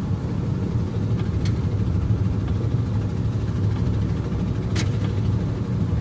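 A car being driven, heard from inside the cabin: a steady low rumble of engine and road noise, with a couple of faint ticks.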